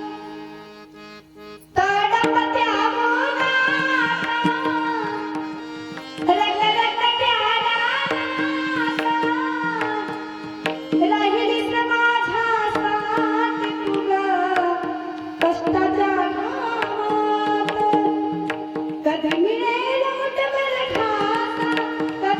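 Marathi kirtan devotional music: a voice singing long, sliding phrases over a steady drone, with tabla accompaniment. It is quieter for the first two seconds, then the singing comes in.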